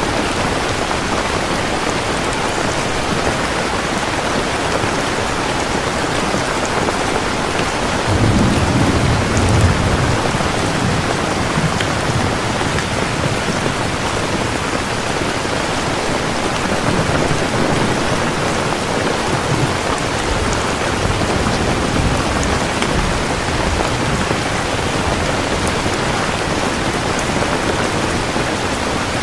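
Steady heavy rain falling, with a roll of thunder about 8 seconds in and fainter rumbles later.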